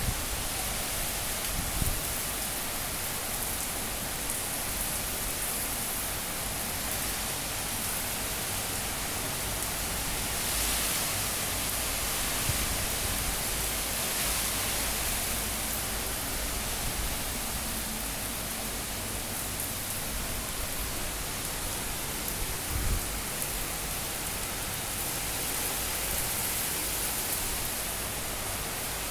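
High wind and gusts from a super cyclone: a steady rush of wind noise that swells around ten to sixteen seconds in, with a brief low thump about twenty-three seconds in.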